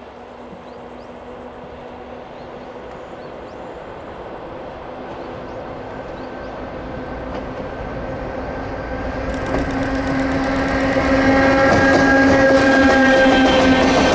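Electric train approaching along the track, growing steadily louder, with a steady humming tone that strengthens and gains higher tones as it draws near.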